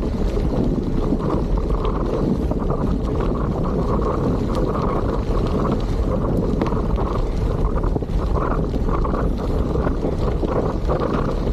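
Trek Checkpoint gravel bike riding over a rough gravel trail: steady tyre rumble and wind buffeting the microphone, with scattered small clicks and rattles.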